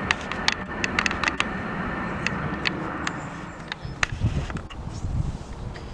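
Jet aircraft engine noise: a steady rush with a faint high whine, fading out about halfway through, with many sharp clicks over it and low rumbling near the end.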